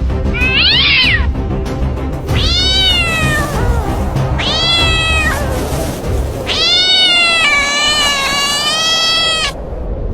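A cat meowing four times over background music, with the last meow long and drawn out.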